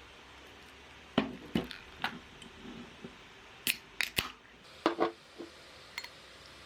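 A string of short, sharp clicks and clacks, about a dozen in all, starting about a second in and ending near the end.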